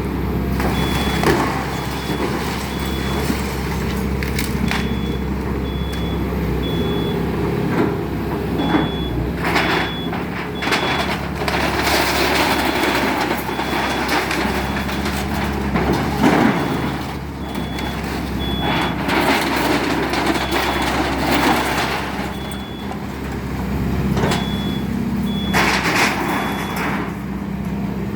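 Excavator's diesel engine running steadily under load, with its high-pitched travel alarm beeping in runs several times, and irregular bursts of crunching and clatter as the house is torn down.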